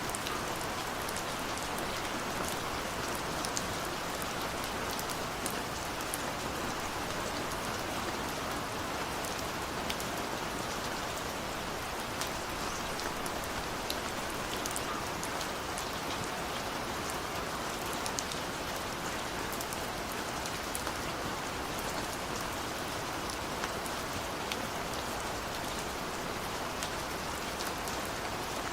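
Steady rain on a window, an even hiss with many small sharp drop ticks scattered through it.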